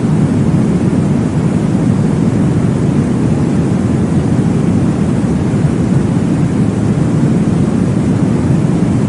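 Steady, deep white-noise track for baby sleep: an even low whoosh, strongest in the bass, with no breaks and no clear beat.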